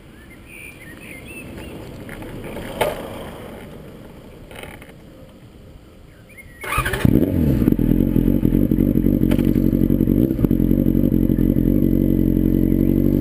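Yamaha R6 motorcycle's inline-four engine firing up through an aftermarket MTC exhaust about halfway in, then idling steadily. Before it starts there is a fainter noise that swells and fades, with a sharp click.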